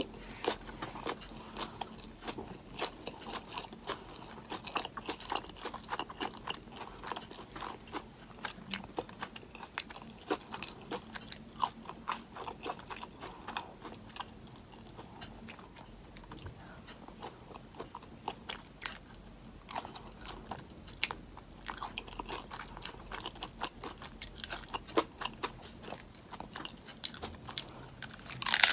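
Close-miked chewing of a romaine-lettuce-wrapped meatless burger and sauced fries: an irregular run of small crisp crunches and wet mouth clicks, with a loud crunchy bite into the lettuce wrap at the very end.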